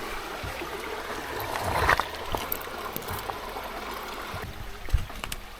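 Shallow creek water running steadily over rocks. A louder burst of noise comes about two seconds in, and a single thump near the end.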